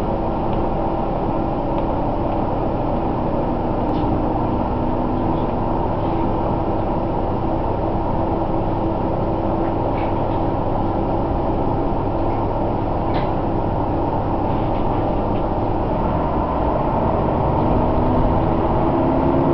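Diesel railcar's engine running steadily, heard from inside the car, with a few faint clicks; its tone rises a little near the end.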